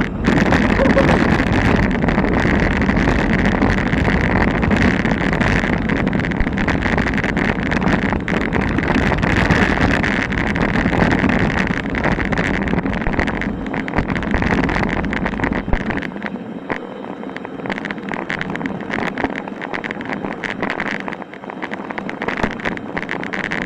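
Mountain bike rolling over a rocky, loose trail, its parts rattling with many small knocks, under wind buffeting the action-camera microphone. The low wind rumble drops away about two-thirds of the way through while the rattling goes on.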